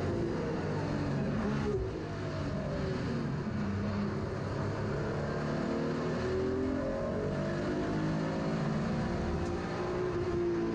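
BMW E36 M3 race car's S54 3.2-litre straight-six heard from inside the cabin, running hard on track. The engine note falls, with a brief dip in loudness about two seconds in, then climbs steadily again as the car accelerates.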